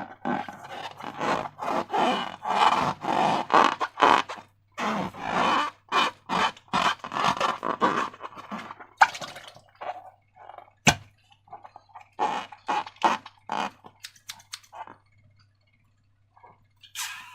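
Irregular scraping and crinkling handling noises from slime-balloon materials being worked by hand, dense at first and thinning out later, with one sharp click about eleven seconds in. A faint steady hum runs underneath.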